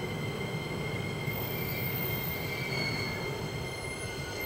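JR East E231 series electric commuter train pulling into the platform: a steady rumble of wheels on rails with a thin, steady high whine above it.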